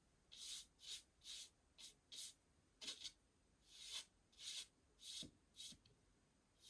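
A paintbrush stroking paint onto a wooden baseboard: faint, short bristle strokes, about two a second at an uneven pace.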